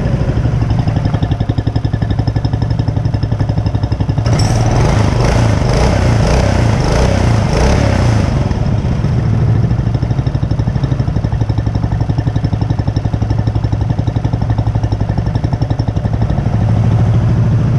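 Mokai motorized kayak's single-cylinder Subaru EX-series engine running through its present muffler, revved up from about four seconds in to about eight and a half, then settling back to a steady idle.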